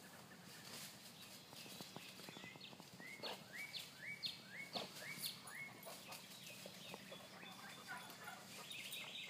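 A bird calling in the background: a run of about eight short rising whistled notes, a few a second, from a couple of seconds in, over faint rustling and crackling from the brush pile.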